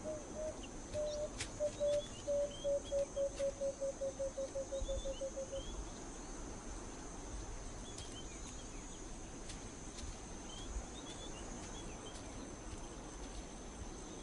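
A bird calling a run of low hooting notes that speed up and drift slightly lower, then stop about five and a half seconds in, over scattered small bird chirps and a steady high insect drone.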